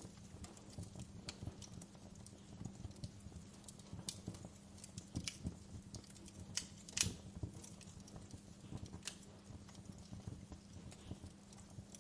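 Wood fire crackling in a fireplace: irregular small pops and snaps over a low steady hiss, with one louder pop about seven seconds in.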